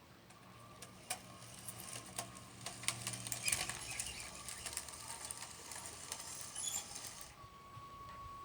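Gravel or dirt rattling and trickling from RC construction models at work, over the low hum of their small electric motors. The rattle stops abruptly about seven seconds in, and a steady high whine is left.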